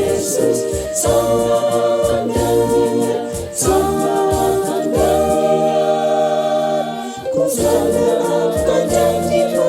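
Church choir singing a hymn in harmony, in phrases of held chords with a long sustained chord past the middle and short breaks between phrases.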